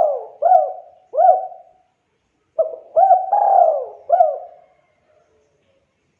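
Spotted dove cooing: the end of one coo phrase, then a full phrase of four swooping coo notes starting about two and a half seconds in.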